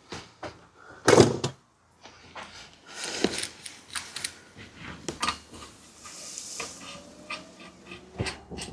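Tools and bicycle parts being handled and set down on a workbench: a series of irregular knocks and clatters, the loudest about a second in.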